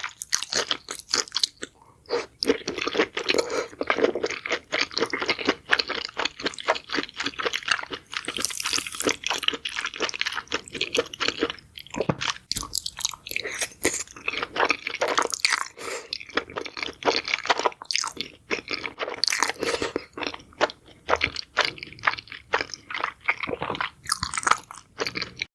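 Close-up crunchy chewing of food: a dense run of rapid crackling crunches, with a brief pause about twelve seconds in.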